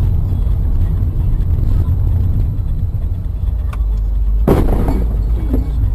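Steady low rumble of a car driving, heard through a dash camera inside the cabin, with a sudden loud bang about four and a half seconds in.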